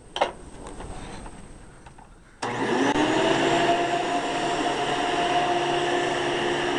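A sharp click, then about two and a half seconds in a Hoover commercial vacuum cleaner is switched on: its motor spins up with a rising whine and then runs steadily.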